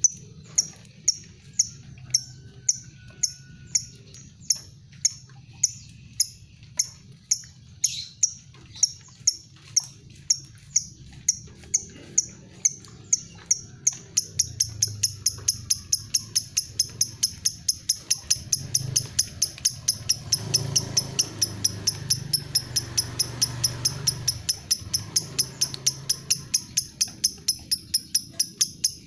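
Lovebird giving its 'ngetik' ticking call: a long run of short, sharp, high ticks, about two a second at first, quickening to about four a second about halfway through.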